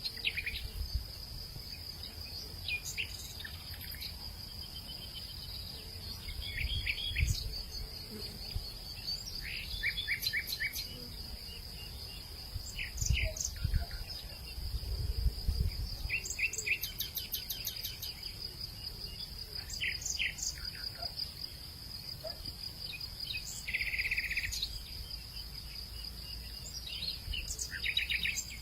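Hillside evening ambience: a steady high-pitched insect trill, with birds giving short bursts of rapid chirps every few seconds. Low gusts of wind rumble on the microphone now and then.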